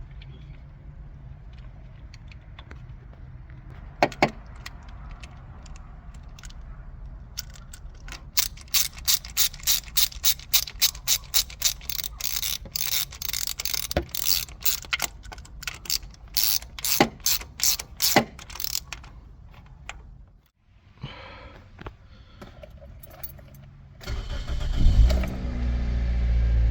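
Rapid clicking of a ratchet wrench, in quick runs, tightening a new ignition coil's hold-down bolt. Near the end, the Toyota Corolla's four-cylinder engine starts with a brief rise in revs and settles into a steady idle, which sounds much smoother with the new coil on cylinder 1.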